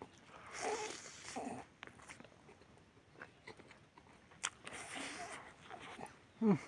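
A man eating with his hands: quiet chewing and mouth sounds, with two breathy stretches and a sharp click. A short falling vocal sound comes near the end.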